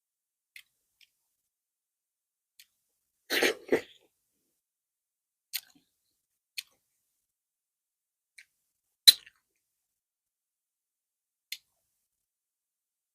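Close-miked mouth sounds of someone eating fufu with okra soup: sparse, sharp, wet smacks and clicks a second or two apart, the sharpest about nine seconds in. About three and a half seconds in there is a louder, fuller double noise.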